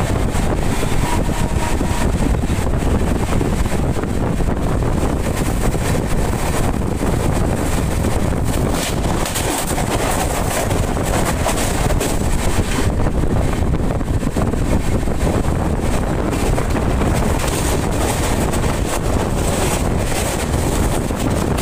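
Moving passenger train: a steady, loud running rumble, with wind buffeting the microphone.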